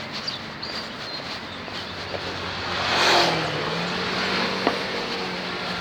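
Road traffic: a motor vehicle passes close, its engine and tyre noise swelling to a peak about three seconds in and then easing, with a low steady engine hum after it.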